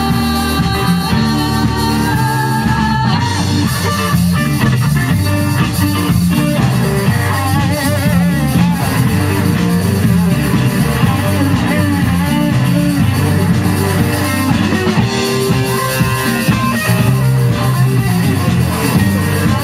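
Rock band playing loudly and steadily, with guitar and drum kit, and a held melody line that wavers in pitch about eight seconds in.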